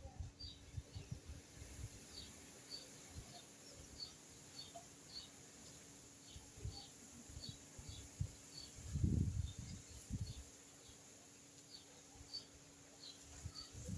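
Rural outdoor ambience: a steady run of short high chirps, about two a second, with a brief low rumble about nine seconds in and another near the end.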